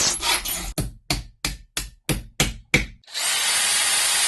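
A run of about eight sharp knocks, roughly three a second, then a steady hiss of a machine running with a thin high whine.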